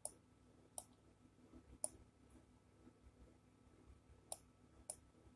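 A few sharp computer mouse clicks, about five, at irregular intervals over near silence, as a map view is dragged and zoomed.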